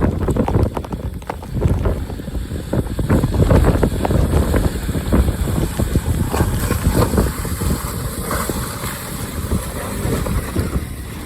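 Wind buffeting the microphone outdoors, a loud, gusty low rumble that rises and falls without pause.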